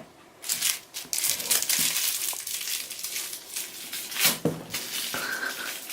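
Continuous crinkling and rustling of a balloon being handled and played with by a toddler.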